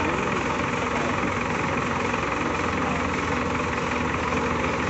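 Heavy vehicle engine running steadily at a constant speed.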